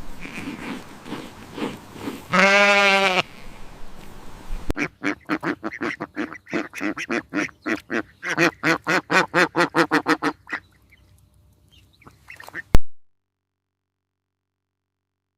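Farm animal calls: one drawn-out pitched call, then a rapid run of short calls at about five a second lasting several seconds. It ends with a sharp click, then silence.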